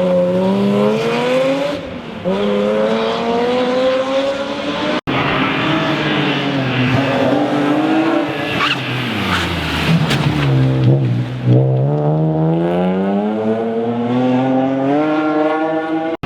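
Rally car engine accelerating hard and shifting up, its pitch climbing and dropping back at each change, with a momentary cut-out about five seconds in. Later the revs fall away for a corner and then climb steadily again under full acceleration.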